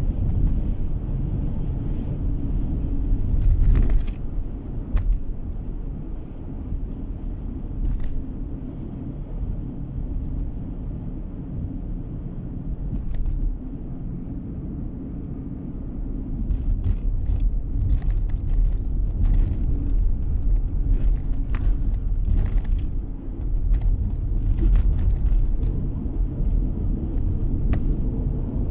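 Car driving along a road: a steady low rumble of engine and tyre noise, with scattered short clicks and rattles that come more often in the second half.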